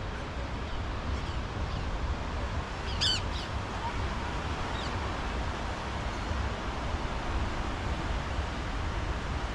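Outdoor ambience with wind rumbling on the microphone, and a short high chirping call about three seconds in.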